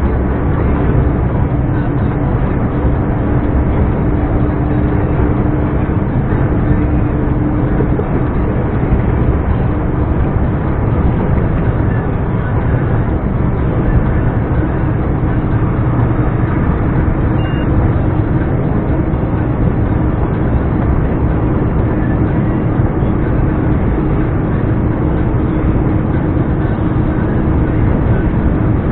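Scania R420 truck's turbocharged diesel engine running under way, a steady drone with one held tone and no change in engine speed.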